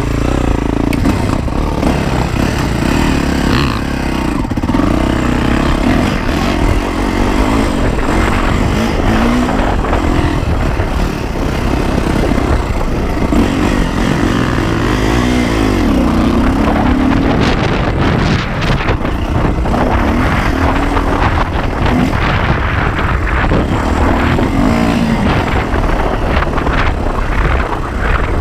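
Yamaha YZ450F's four-stroke single-cylinder engine pulling as the dirt bike is ridden off. The revs climb and drop over and over with throttle and gear changes.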